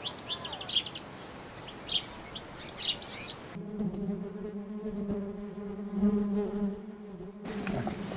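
Small birds chirping in quick high notes, then a flying insect buzzing close by in one steady hum for about four seconds before it cuts off.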